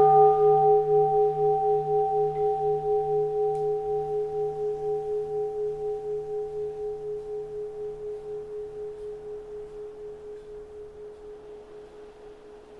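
A keisu, a Japanese Buddhist bowl bell, ringing on after a strike, its few tones wavering slowly as they fade away over about twelve seconds. A faint wind hiss sits underneath.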